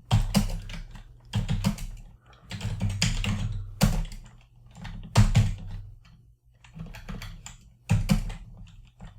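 Typing on a computer keyboard in short runs of keystrokes with brief pauses between them, over a low steady hum.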